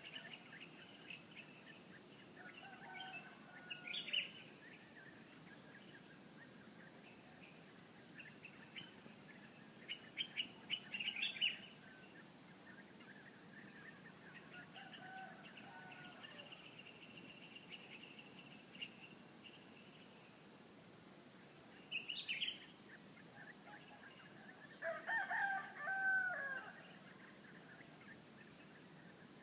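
A rooster crows once near the end, one long call that bends in pitch. Birds give short calls three times before it, over a steady high-pitched insect drone.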